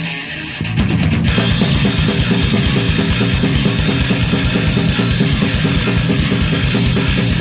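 Punk band playing live with no vocals: a few drum hits, then about a second in the full band comes in with fast, steady bass drum beats, cymbals and distorted guitar.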